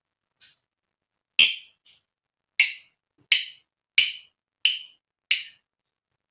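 Female lovebird giving short, shrill, sharp single calls. A faint one comes about half a second in, then six loud ones at roughly two-thirds of a second apart.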